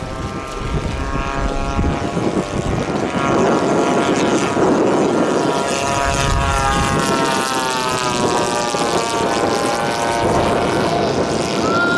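A propeller-driven giant-scale radio-control model airplane flying. Its engine drone holds steady, then slides in pitch about halfway through as it passes.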